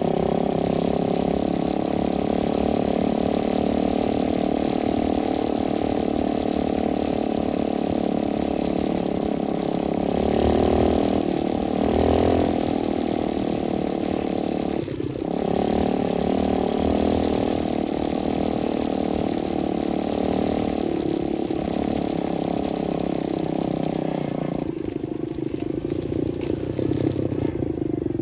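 125cc dirt bike engine running steadily under way, its pitch wavering with the throttle. It drops off briefly about halfway through, and its note changes and settles lower a few seconds before the end.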